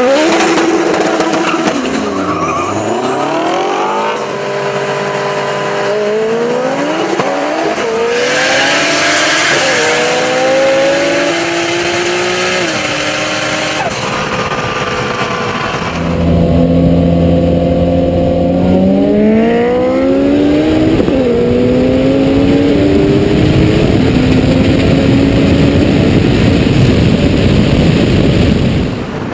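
Turbocharged street-race cars accelerating flat out through the gears. The engine note climbs in pitch and drops back at each upshift, again and again. About halfway through it switches to a louder, closer run of the same climbing and shifting.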